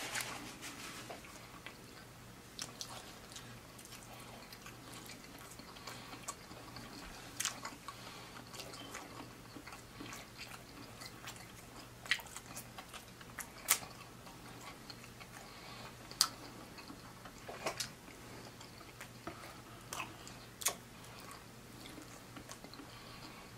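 A person chewing fried seafood close to the microphone, with scattered sharp mouth clicks and smacks every second or two over a faint steady low hum.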